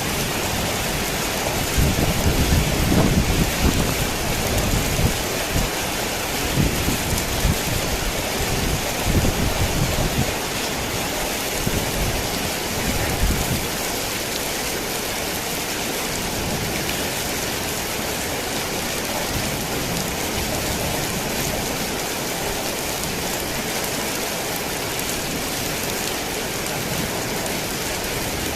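Heavy rain drumming steadily on a tin roof, with thunder rumbling low through roughly the first half and dying away about halfway through, leaving the steady rain.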